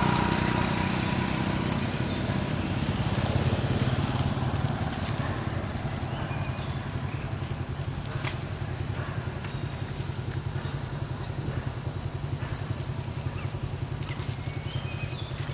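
An engine running steadily at low speed, with one sharp click about eight seconds in and a few short high chirps near the end.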